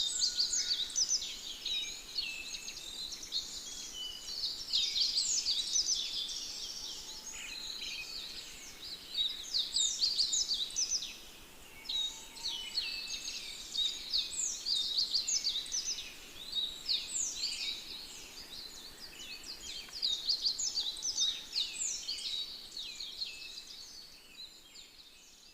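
Dense chorus of many small birds chirping and twittering, a constant stream of quick, high, downward-slurred chirps that swells and ebbs and fades out near the end.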